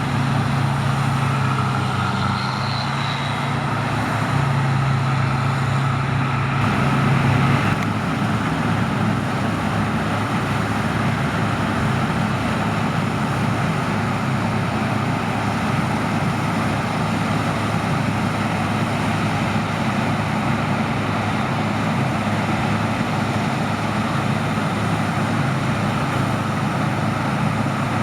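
Heavy diesel harvest machinery running steadily, a combine harvester or tractor, with a deep continuous drone. About seven to eight seconds in, a strong low hum drops away and the running settles into an even tone.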